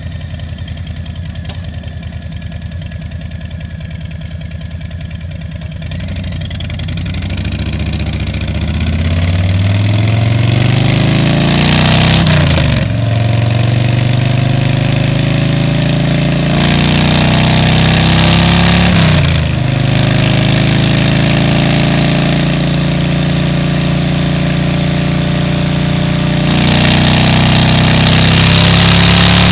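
Motorcycle engine idling, then pulling away and accelerating through the gears: the pitch climbs steadily, drops sharply at two upshifts and climbs again. Wind rush grows as speed builds near the end.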